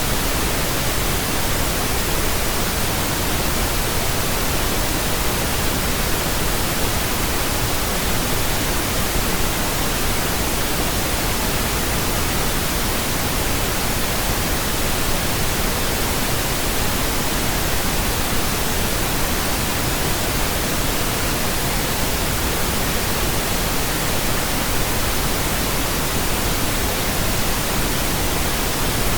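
Steady pink noise: an even, unchanging hiss across the whole range, without any tones or breaks.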